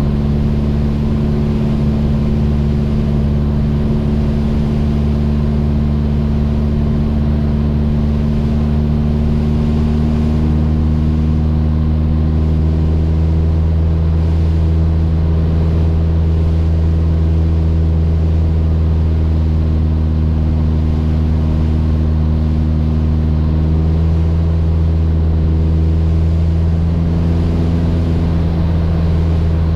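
Mooney M20J's four-cylinder Lycoming engine and propeller droning steadily, with small shifts in pitch partway through.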